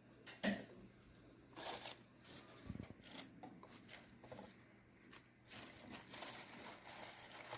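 Faint rustling and handling noise, with a sharp knock about half a second in and a denser stretch of rustling in the second half.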